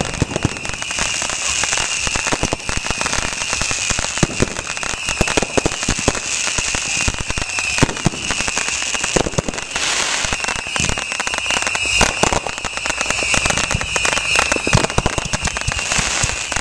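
Fireworks finale: a continuous, dense crackling and popping from many fireworks going off at once, including spark-spraying ground fountains. A steady high-pitched whine runs underneath throughout.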